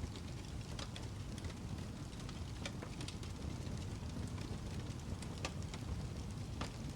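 Birch logs burning in a fireplace: a steady low rumble of flames with a few sharp crackles and pops at irregular intervals.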